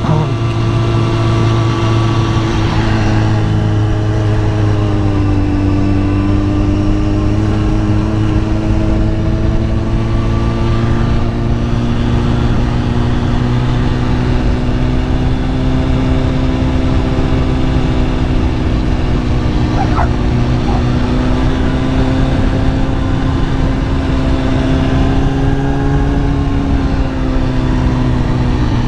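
Kawasaki ZX-10R's inline-four engine running at steady cruising revs. Its pitch dips slightly a few seconds in, climbs gradually later on, and eases off near the end.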